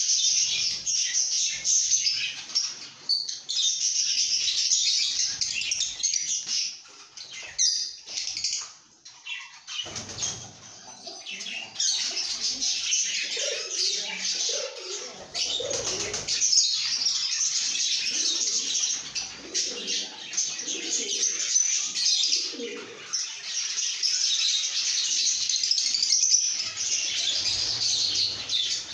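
Flock of lovebirds chattering and chirping continuously, a dense mass of shrill high calls that thins briefly about a third of the way in, then resumes with some lower calls mixed in.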